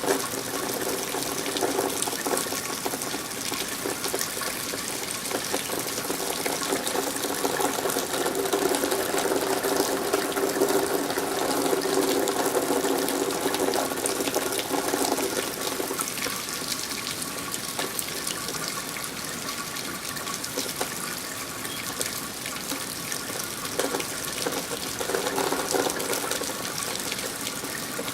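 Steady rain falling, with water running and splattering. The heavier rush of running water is louder for about the first half, eases off, then picks up again near the end.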